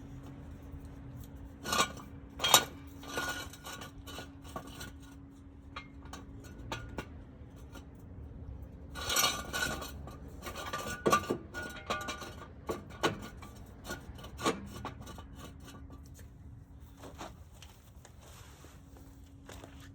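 Metal tools and car parts clinking, knocking and scraping during hands-on repair work, with a few sharp knocks, over a steady low hum.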